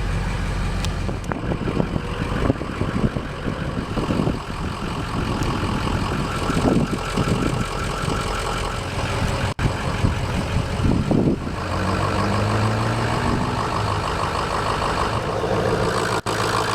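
Ford 6.0-liter Powerstroke turbo diesel V8 running at idle just after start-up, with its steady diesel clatter; the sound breaks off for an instant twice.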